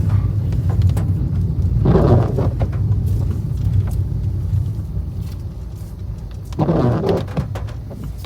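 Car driving on a winding road, a steady low road and engine rumble heard from inside the cabin, with two short louder swells about two seconds in and near the end.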